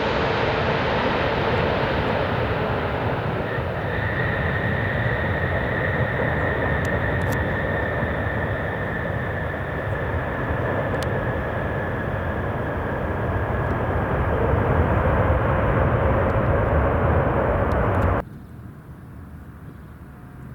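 Boeing 747 jet engines running loud and steady as the jumbo jet lands, a deep rumble with a steady high whine over it. It cuts off suddenly near the end, leaving only faint background noise.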